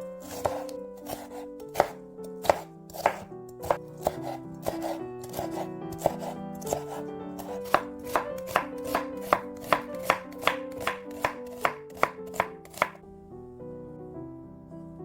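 Knife chopping on a cutting board: sharp, fairly quick strokes about two to three a second that stop near the end, over soft background music.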